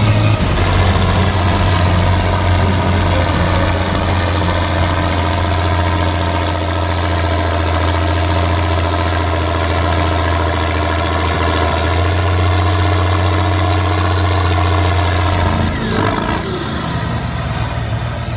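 Heavy tractor engine running steadily and hard, its deep note holding level for most of the stretch, then falling away near the end.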